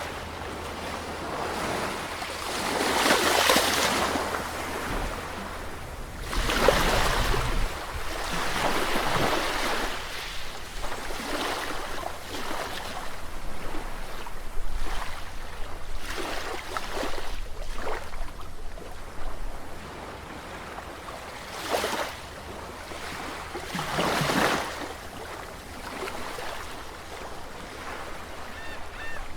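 Sea waves breaking and washing in, a steady rush with louder surges every few seconds, the biggest about 3, 7, 22 and 24 seconds in.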